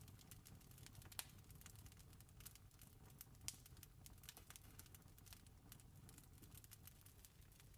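Wood fire crackling faintly: a steady run of small pops and snaps, two a little sharper about a second in and near the middle, over a low steady rumble.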